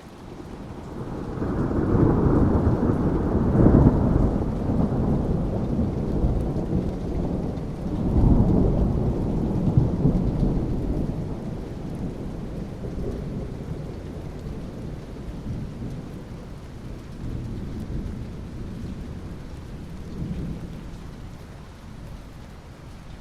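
Rolling thunder over steady rain. A low rumble builds about a second in, swells again around eight seconds, then slowly fades, with the rain's hiss underneath.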